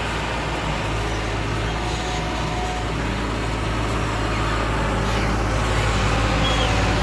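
Heavy diesel engine running steadily, a little louder from about five seconds in.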